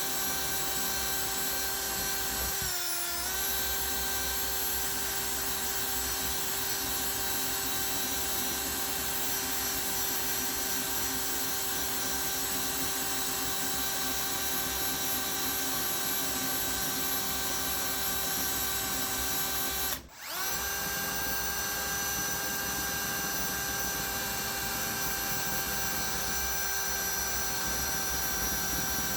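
Electric drill spinning a soft wire wheel against the rusty iron ice claw, a steady motor whine over the scratch of the wire bristles. The pitch sags briefly about three seconds in, and about two-thirds of the way through the drill stops for a moment and then spins back up.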